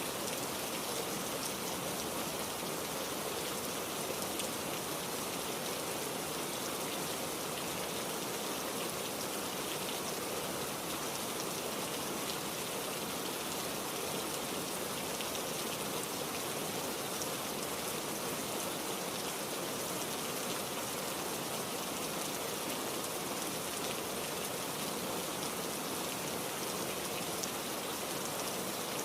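Heavy rain falling steadily: an even, unbroken hiss with fine patter of drops and no thunder.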